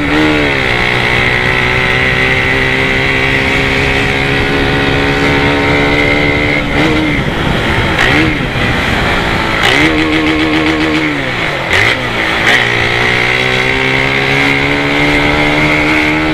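Motorcycle with a modified Polimet exhaust ridden at speed: a loud, steady engine note whose pitch dips and climbs again at gear changes, about a second in, around seven and ten seconds in, and near the end. A few sharp cracks come from the exhaust when the throttle eases around twelve seconds in.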